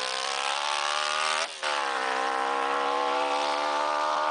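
Yamaha motorcycle engine on a racing lawn mower running at full throttle: the revs climb, drop out sharply for a moment about a second and a half in, then come back and hold high.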